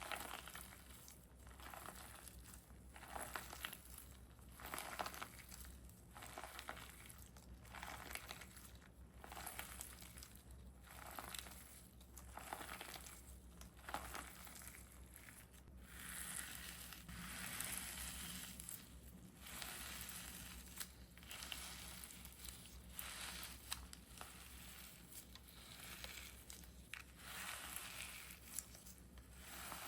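Handmade squishy being squeezed and pressed over and over, giving soft crinkly, crushing sounds about once a second, with slower, longer presses past the middle.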